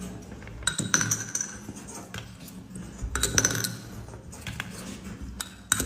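Light clinking and rattling of small hard objects, in three clusters: about a second in, around three seconds, and near the end.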